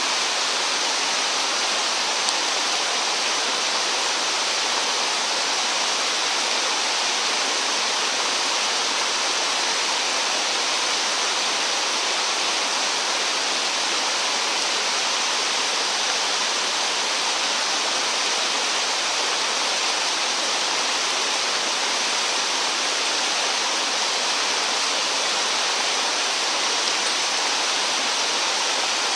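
Stream flowing: a steady, even rush of water that does not change.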